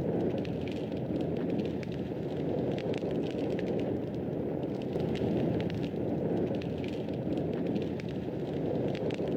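Fireplace fire crackling: a steady low rushing, with frequent small, sharp crackles and snaps scattered irregularly through it.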